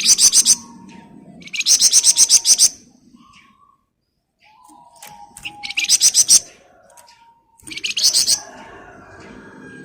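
Flamboyan songbird giving rapid, buzzy rattling trills (the 'ngebren' song), four dense high-pitched bursts with short pauses between them and fainter calls in the gaps.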